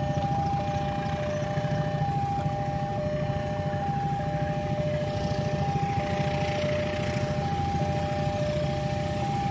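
Railway level-crossing warning signal sounding two alternating tones, a lower and a higher, repeating steadily; it signals that a train is approaching the crossing. Under it, a steady low rumble of engines.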